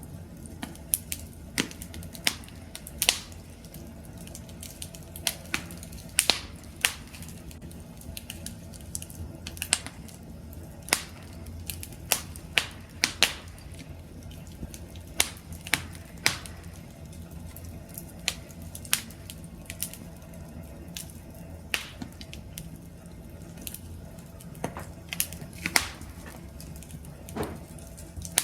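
Wood fire burning with a steady low rumble, crackling and popping irregularly, with a few louder pops.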